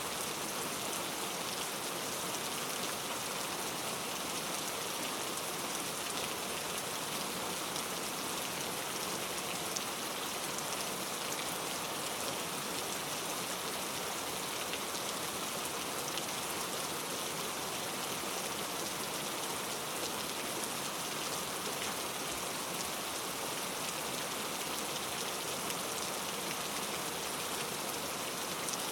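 Steady rain falling, a dense, even patter of many fine drops with no thunder.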